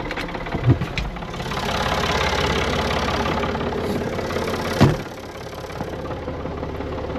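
Tractor engine idling steadily, with a louder rushing stretch in the middle and a few short knocks.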